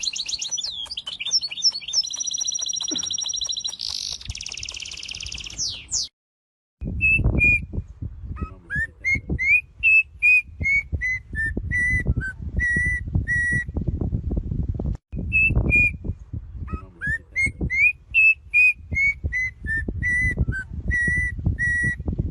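Songbirds singing: first a fast, high warbling trill, then, after a cut, a phrase of clear whistled notes that rise and then step down, sung twice. A loud low rumbling noise runs under the second song.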